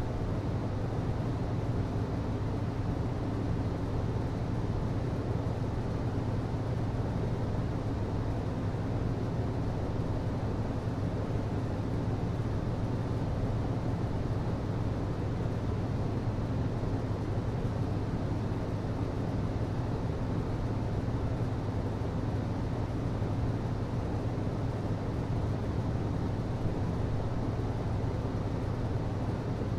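HVAC system running: a constant low hum with a steady noise of moving air over it, unchanging throughout.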